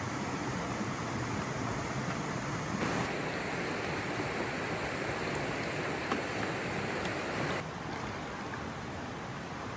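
Steady rush of flowing water from a stream or waterfall, dropping abruptly a little in level near the end.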